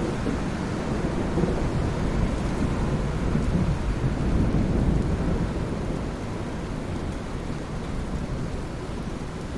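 Rain falling on ocean water: a steady rushing hiss with a deep rumble underneath that swells around the middle and eases toward the end.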